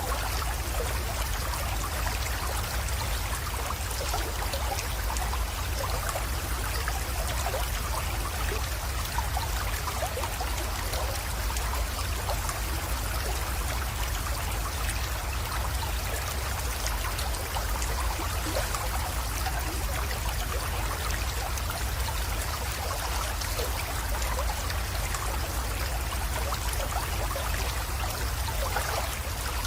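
Small creek water trickling and splashing steadily, with a steady low rumble underneath.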